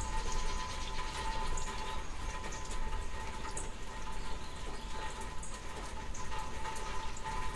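Steady rain of a summer thunderstorm, with scattered drops ticking, a low rumble underneath and a faint steady whine.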